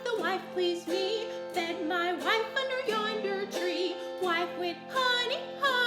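Woman singing a children's folk song over sustained instrumental accompaniment.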